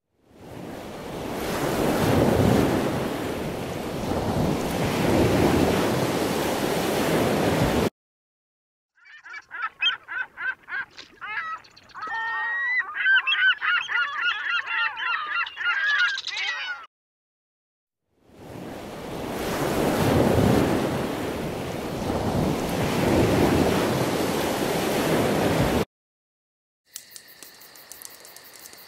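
Added nature sound effects, separated by short silences: a swelling rushing noise for about eight seconds, then geese honking in a flurry of repeated calls for about eight seconds, then the rushing noise again. Near the end, crickets begin chirping.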